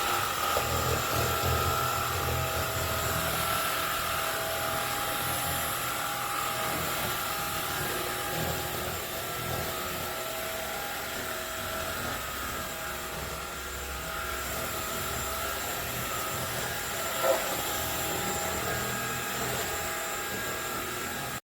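Cordless stick vacuum cleaner's brushless motor running steadily, a rushing noise with a high whine over it. There is one brief knock about seventeen seconds in, and the sound cuts off suddenly near the end.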